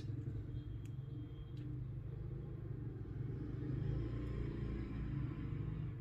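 Steady low background rumble, with two faint clicks about a second in.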